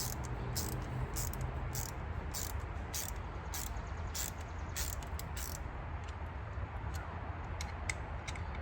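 Insects chirping in short high-pitched pulses, about two a second, over a steady low rumble.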